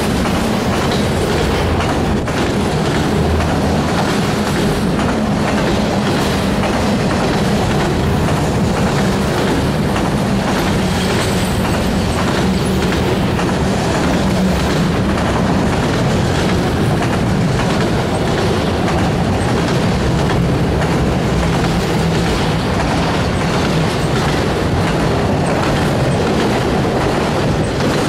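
A freight train of autorack cars passing close at speed: the steel wheels on the rails make a loud, steady rolling rumble.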